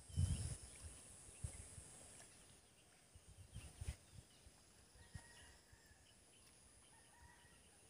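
Quiet rural outdoor ambience with faint, scattered bird chirps and a few low muffled thumps, the loudest just at the start.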